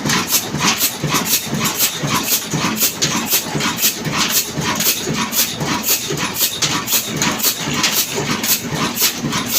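Old Ruston Hornsby diesel engine running slowly, with a steady, even knock at about four beats a second.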